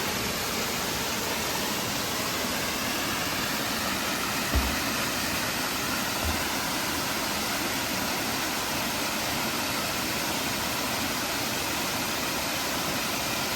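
Waterfall and mountain stream rushing steadily. Two brief low thumps come about four and a half and six seconds in.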